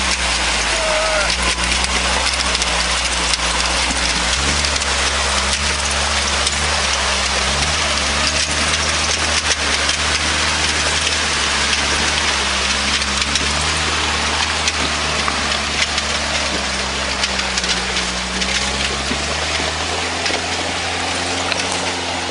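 Car engine running under load, its pitch stepping up and down as the throttle is worked, while the car churns through deep wet mud, with a constant hiss and crackle of spraying mud and water.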